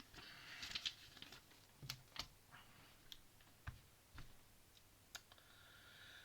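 Faint, scattered clicks and taps of plastic Lego pieces being handled and pressed together, with a brief rustle near the start.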